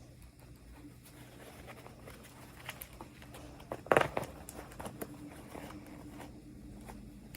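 Hands handling plastic toy packaging: scattered small clicks and rustles, with a louder crackling snap about four seconds in. A faint steady hum runs underneath.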